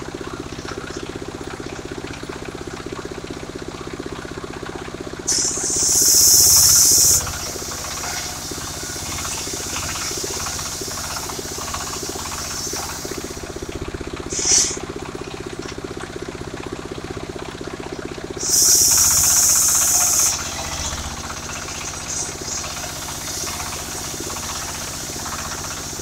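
Engine of a portable circular sawmill running steadily. Loud bursts of high hissing come about five seconds in and again near eighteen seconds, each lasting about two seconds, with a brief one in between.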